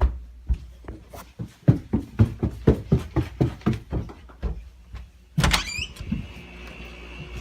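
Footsteps thumping at about three a second, then a door opening with a brief squeak. After it a steady machine hum with a high, even whine sets in, which is the Goldstar 5400 BTU window air conditioner running.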